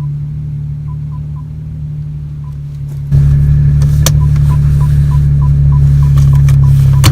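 Exhaust drone of a BMW 335i's twin-turbo N54 inline-six with a muffler delete, heard from inside the car at a steady, unchanging pitch while cruising. About three seconds in it turns sharply louder and stays loud.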